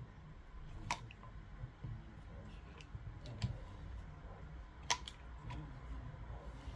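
Scattered clicks and light taps from a Bose SoundLink Color II speaker's case being handled while someone tries to open it, with two sharper clicks, one about a second in and one near five seconds in, over a faint low hum.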